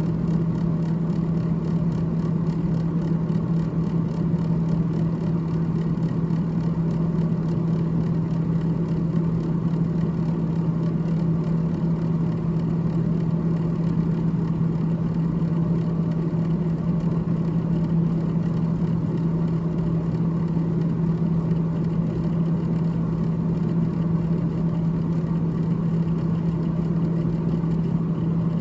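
Freezer fan of a GE GTH18XCTZRBB refrigerator running steadily, a loud, even low hum with one strong pitch and a faint whir over it.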